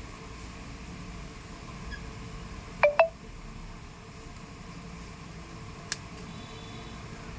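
Two short electronic beeps in quick succession about three seconds in, then a single faint click near the end, over a steady low room hum.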